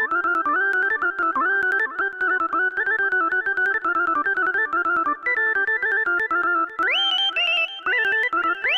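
Balkan-style solo melody played on an Xfer Serum software synthesizer patch: fast runs of ornamented notes, with quick upward pitch slides into higher notes in the second half.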